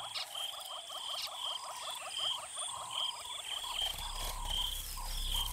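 Frogs calling in chorus: a fast, even train of croaking pulses, about seven a second, with a higher chirp repeating over it. A low rumble comes in about four seconds in.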